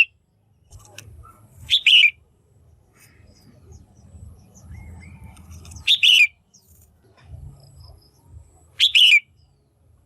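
Female red-whiskered bulbul calling: three short, loud, clear calls a few seconds apart, each a quick run of falling notes. This is the kind of female call bird keepers play to rouse a male.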